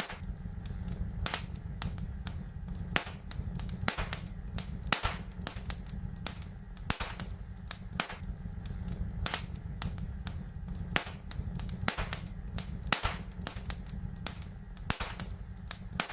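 Wood fire crackling: sharp, irregular pops and snaps, several a second, over a steady low rumble.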